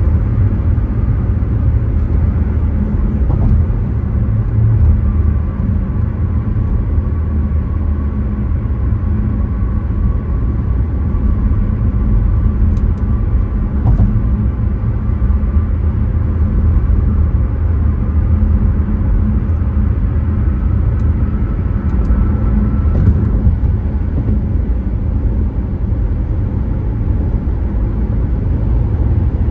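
Steady low rumble of a car on the move, tyre and engine noise of the vehicle being driven. A faint high whine drifts slowly upward in pitch and fades out a little after twenty seconds in.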